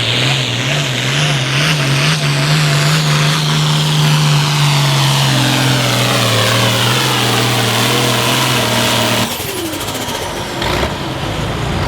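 Turbocharged altered farm tractor pulling a sled at full throttle: the engine is held at a steady high pitch, with a high whine above it that falls steadily in pitch, then the engine is cut off abruptly about nine seconds in.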